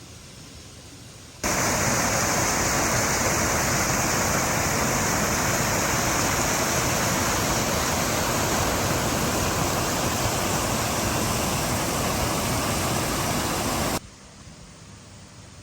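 A steady, loud rushing noise that starts abruptly about a second and a half in and stops abruptly near the end, like water running hard.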